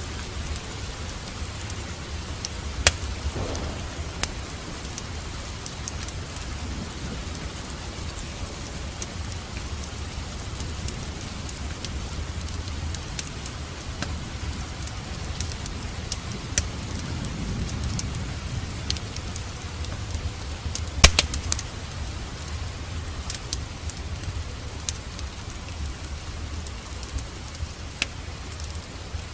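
Steady rain with a wood fire crackling: scattered sharp pops, the loudest about three seconds in and about twenty-one seconds in, over a low rumble.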